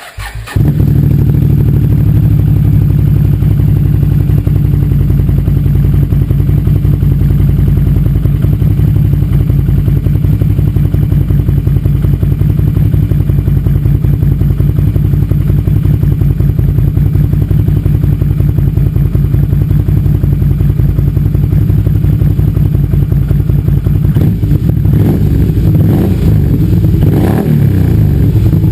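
Can-Am Renegade 500 ATV's V-twin engine through an aftermarket HMF exhaust, starting up and then idling steadily. Near the end it is revved several times.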